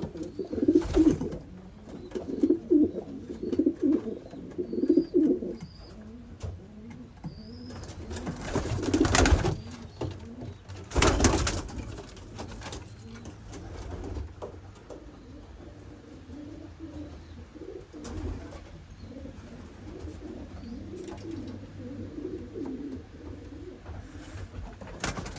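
Racing pigeons cooing in a loft, in repeated low pulsing calls, strongest in the first few seconds and fainter again near the end. A few short loud bursts of noise cut in, the biggest about nine and eleven seconds in.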